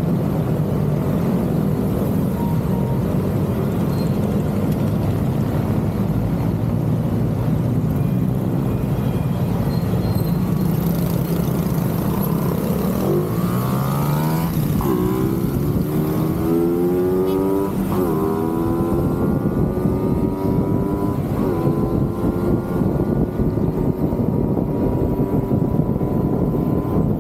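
Motorcycle engines, the Honda ADV scooter's single-cylinder among them, idling at a traffic light, then pulling away about halfway through: the engine pitch climbs, drops back briefly a few times and climbs again as the bike gathers speed, with wind rushing over the microphone.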